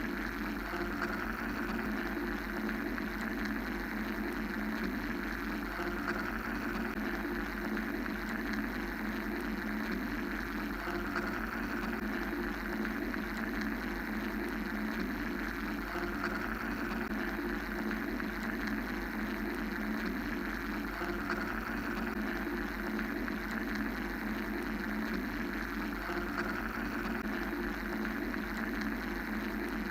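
Steady mechanical white noise: an even, engine-like droning hiss with a low hum underneath, its upper part gently swelling and easing.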